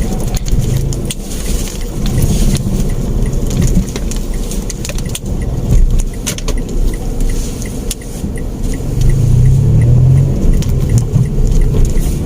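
Inside a manual Mitsubishi Mirage hatchback pulling in first gear: the engine runs under a steady road rumble, with keys jangling and short knocks and rattles from the cabin. The engine hum grows stronger about nine seconds in.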